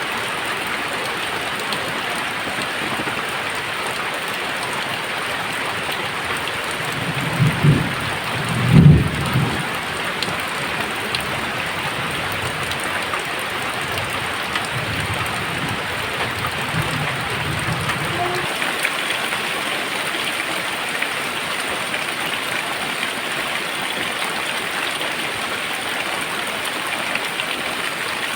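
Very heavy rain pouring steadily. A deep rumble of thunder comes in about a quarter of the way through, swells to a sharp loudest crack, then rolls on more quietly and dies away a little past the middle.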